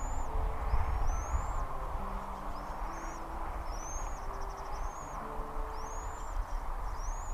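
A bird calling over and over: high chirps that rise then fall, about one a second, some followed by a short rapid trill. A low steady rumble runs underneath.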